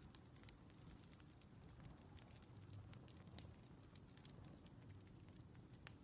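Faint crackling of a wood fire: small irregular pops and snaps over a low steady rumble, with one sharper snap near the end.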